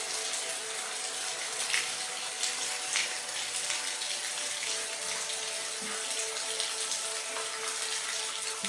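Steady rain falling, an even hiss with a few louder drop ticks, over faint steady tones.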